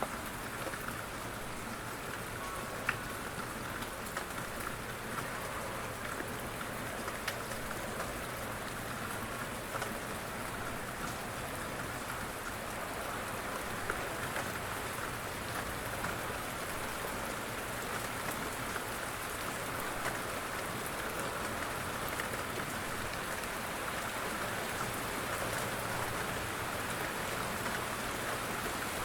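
Steady rain falling, an even hiss with individual drops ticking here and there; one sharper drop stands out about three seconds in.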